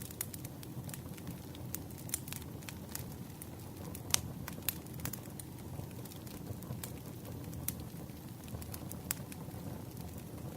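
Wood campfire burning: a steady low rumble with irregular crackles and sharp pops, a few louder snaps scattered through.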